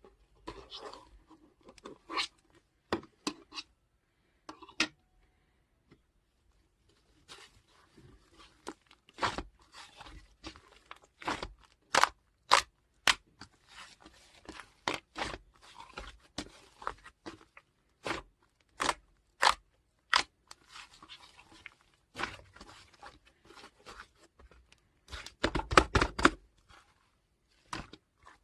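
Crunchy slime being squeezed and pressed by hand, giving irregular crisp crackles and pops, with a dense burst of crackling about 25 seconds in.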